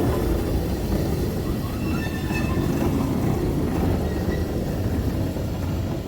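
Steam train on the move with a steady low rumble of wheels and carriages, and a brief wheel squeal on the rails about two seconds in.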